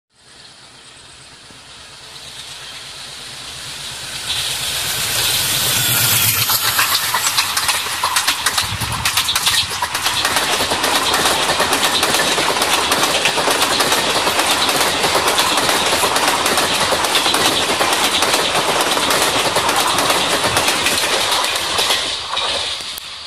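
Indian Railways express passenger train passing at speed. The sound builds as it approaches, then holds as a steady rush of wheels on rails with rapid clickety-clack over the rail joints as the coaches go by. It drops away near the end as the train recedes.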